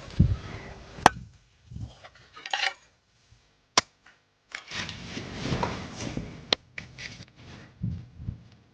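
Digging out a hearth in the earth: a tool scraping and chopping into soil, with a few sharp knocks along the way.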